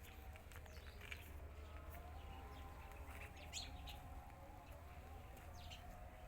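Faint birdsong: scattered short chirps and tweets over a low, steady outdoor rumble.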